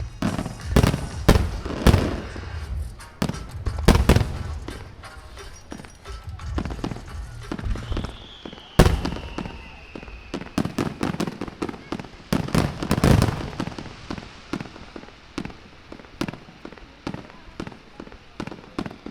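Aerial fireworks shells bursting one after another with deep, rumbling booms, a thin falling whistle about eight seconds in, and quick crackling bursts that thicken in the second half.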